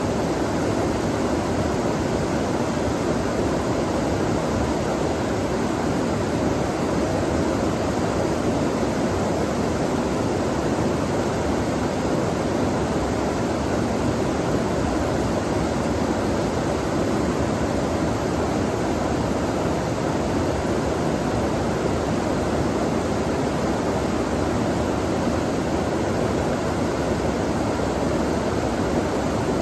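Running water flowing steadily, an even, unbroken hiss with no changes.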